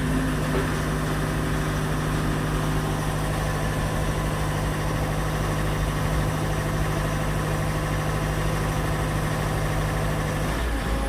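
Engine of the excavator or tractor driving a homemade hydraulic log splitter, running steadily at idle with an even hum. The hum shifts slightly shortly before the end.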